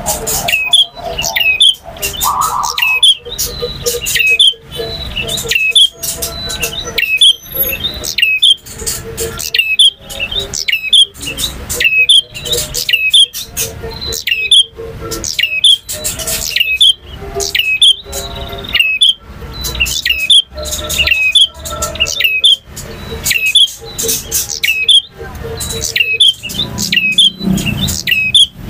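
Male prinia (prenjak) singing: loud, sharp chirps repeated over and over in a fast, unbroken run.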